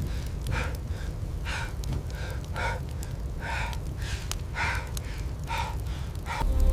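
A man's heavy, rhythmic breathing, about one breath a second, over a steady low rumble.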